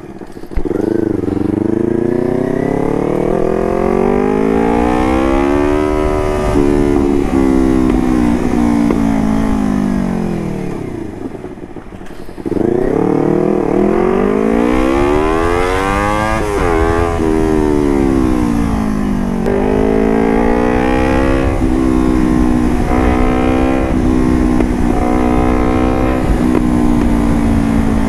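Motorcycle engine through an aftermarket carbon-fibre exhaust, being revved and ridden: the pitch climbs and drops again and again, falls away about eleven seconds in, then climbs hard once more.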